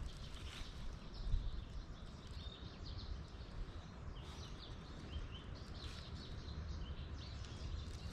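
Low wind rumble on the microphone, with a few faint, high small-bird chirps in the middle and a soft knock about a second in.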